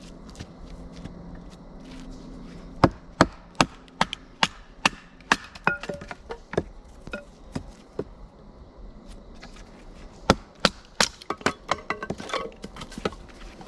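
Firewood being chopped or split: two runs of sharp wooden strikes, about two to three a second, with a pause of a couple of seconds between them.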